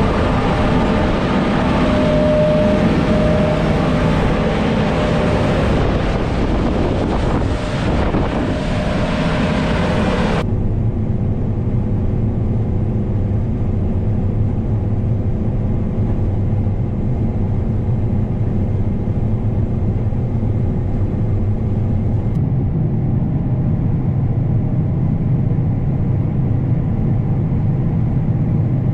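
Combine harvester's diesel engine and machinery running steadily. About ten seconds in the sound cuts abruptly to a deeper, even hum.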